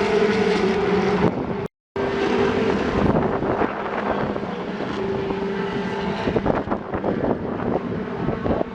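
Steady engine drone with a constant hum, cut off by an edit for a moment just under two seconds in.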